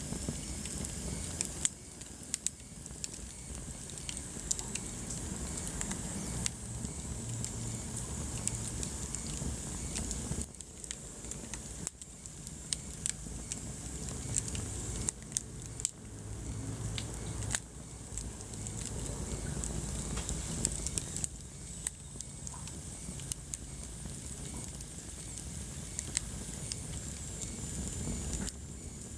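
Wood fire burning in a fireplace: irregular crackles and sharp pops over a low, steady rumble of flame.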